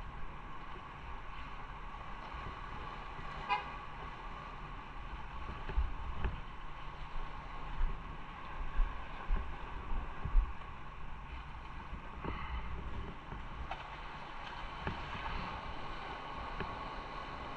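Motorcycle engine running under way with steady road and wind noise and occasional low thumps, and a short beep about three and a half seconds in.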